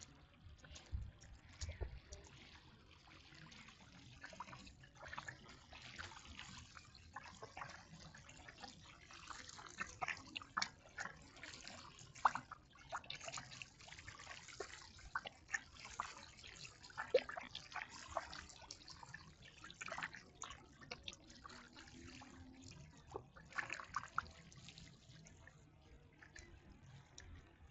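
Water dripping and trickling, with many small irregular clicks and ticks.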